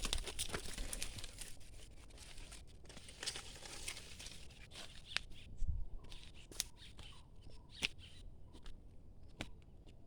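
Rustling and crunching in dry leaves and undergrowth, busiest in the first few seconds. It then thins to scattered light snaps and clicks.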